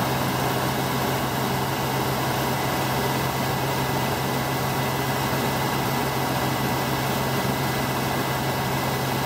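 Newly built 327 Chevy small-block V8 running steadily at a fast idle, held up on the throttle to break in the new cam.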